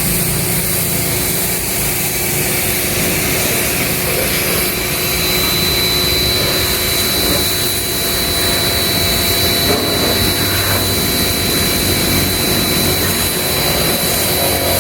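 Ava P25 high-pressure washer spraying: the steady hiss of the water jet over the running pump motor, with a thin steady high whine.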